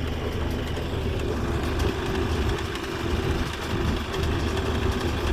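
Bobcat compact tractor's engine running at a steady speed.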